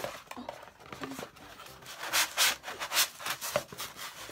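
Cardboard rubbing and scraping against cardboard as a brown kraft inner box is worked out of a white outer box, in a few short scrapes, loudest about two to three seconds in.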